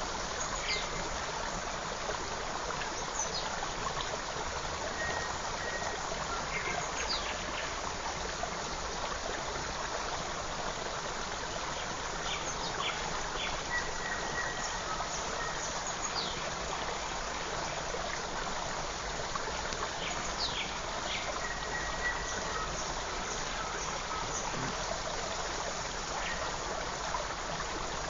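Shallow forest stream running steadily over stones, with small birds giving short, scattered chirps and a few brief whistled notes above the water.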